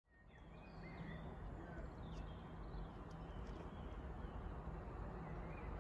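Faint songbirds chirping and whistling over a low, steady background rumble, fading in from silence during the first second.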